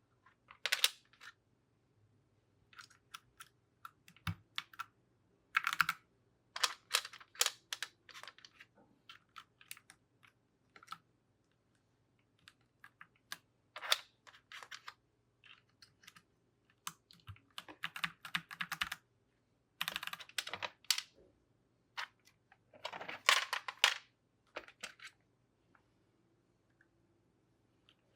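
Plastic keycaps being handled and pressed back onto a keyboard's switches: irregular sharp clicks and clacks, with a couple of quick clattering clusters.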